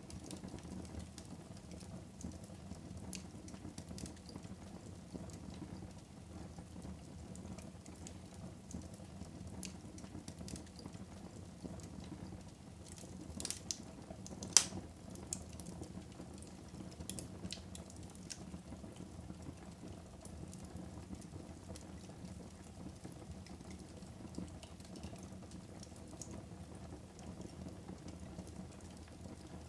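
Wood fire crackling in a fireplace: a steady low rumble of flames with a stream of small snaps, and two sharp louder pops about halfway through.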